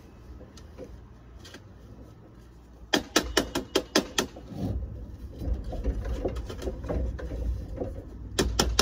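Two runs of quick, sharp taps, about six a second: one a few seconds in and another near the end, over a low steady rumble.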